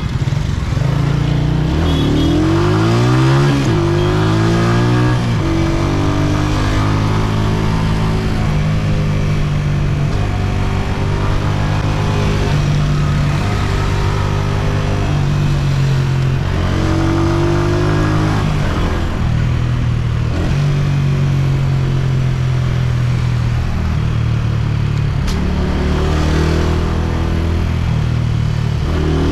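Honda CG125's single-cylinder four-stroke engine pulling the motorcycle along. It revs up in pitch about a second in, then runs steadily. It picks up again a little past halfway and once more at the very end.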